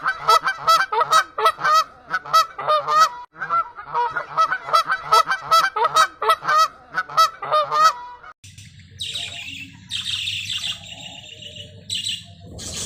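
Waterfowl calling over and over in quick, honking calls, about three to four a second, for about eight seconds. After that the calls stop and a noisier sound with a low rumble and a high hiss takes over.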